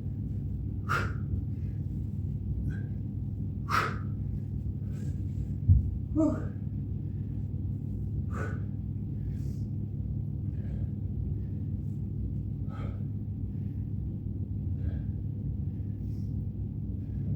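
A man breathing hard during kettlebell reps: sharp exhales every two to three seconds over a steady low rumble, with one dull thud about six seconds in.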